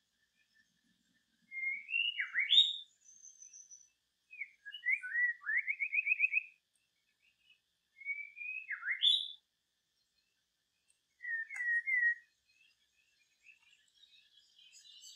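A songbird singing clear whistled phrases with quick up-and-down sweeps, in four bursts about three seconds apart. The first and third phrases are nearly the same.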